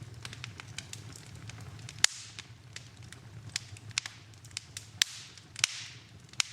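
Wood fire in a fireplace crackling, with rapid small ticks and a few sharp pops, a loud one about two seconds in and three close together near the end, one of them trailing a brief hiss.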